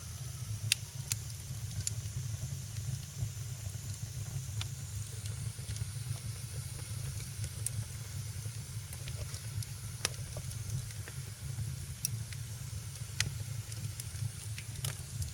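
Wood fire burning in a fireplace: a steady low rumble and hiss with scattered sharp crackles and pops, one louder pop about a second in.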